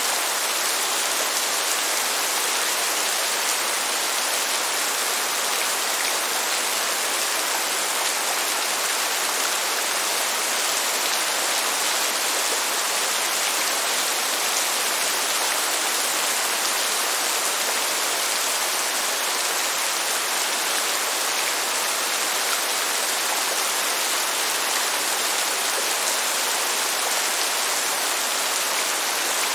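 Steady heavy rain, an even hiss of many drops with no thunder and no change in intensity.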